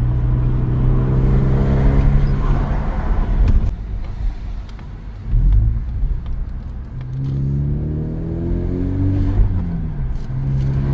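A 2024 Mazda 3's 2.5-litre four-cylinder engine through a Borla axle-back exhaust, heard from inside the cabin while driving under acceleration. The engine note falls at a gear change about three and a half seconds in, climbs in pitch again, and falls at another upshift near the end.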